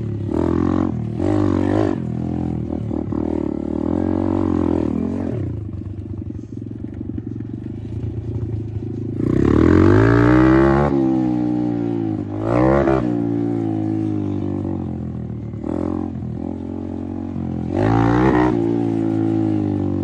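Apollo RFZ 125 dirt bike's single-cylinder four-stroke engine being ridden, revving up and easing off in repeated throttle bursts. The biggest rise comes about halfway through, after a lower, steadier stretch, with shorter revs after it and near the end.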